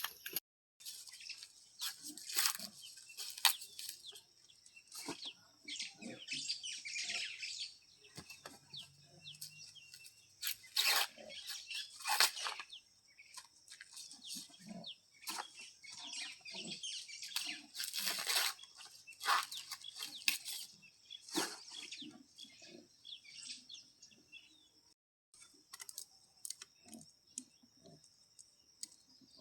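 Chickens clucking in short, irregular calls, with small birds chirping.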